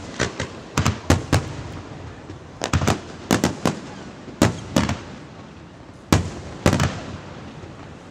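Aerial fireworks shells bursting overhead: a string of sharp booms at irregular intervals, several coming in quick clusters of two or three.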